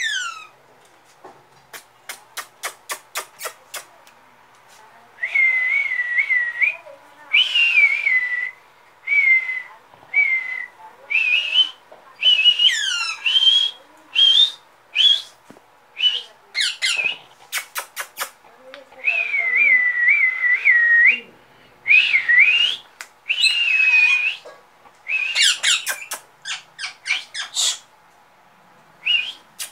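Young rose-ringed parakeet making repeated high whistling, chirping calls in short bursts, some wavering and some sweeping down. They are preceded by a quick run of about eight sharp clicks.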